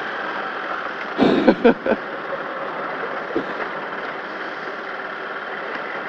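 Opel Kadett GT/E rally car's engine running steadily, heard from inside the cabin, with a brief loud voice-like outburst from the crew about a second in.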